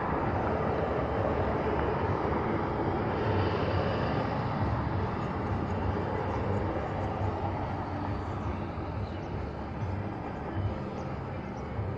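Steady rumbling background noise with no clear rhythm or tone, easing slightly in the second half.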